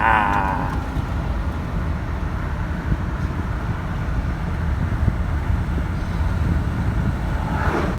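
2006 Lexus LS 430 driving, a steady low engine and road rumble heard from inside the cabin. A brief wavering higher sound fades out in the first second.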